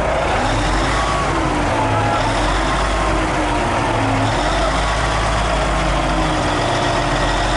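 Hino 500 FM320TI heavy truck's diesel engine running steadily under way, a loud constant low drone with road noise, heard inside the cab. Faint pitched sounds glide slowly up and down over it.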